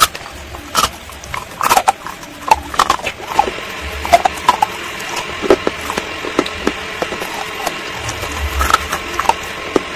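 Close-up crunching and chewing of baked clay pot (matka) pieces coated in a creamy paste: sharp, irregular crunches in quick succession.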